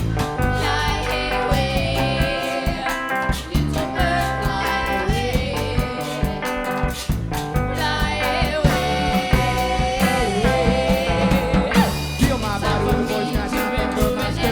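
Live rock band playing an instrumental stretch of a song, with guitar and a steady drum beat.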